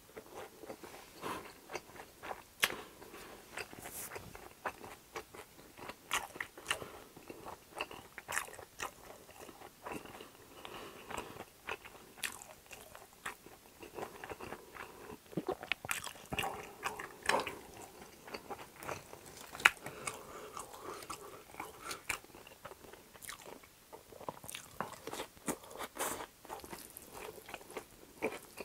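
A person chewing a mouthful of food close to the microphone: irregular wet smacks and sharp clicks of the mouth and teeth.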